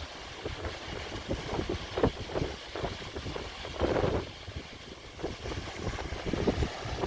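Typhoon wind buffeting the microphone in irregular gusts, a low rumble over a steady hiss, with stronger gusts about two and four seconds in.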